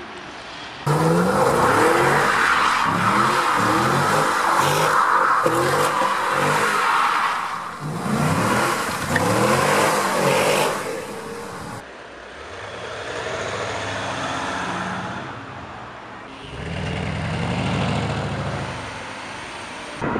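Chevrolet Camaro convertible engine accelerating hard, loud, with repeated quick rising revs. After about twelve seconds a quieter car engine swells and fades twice.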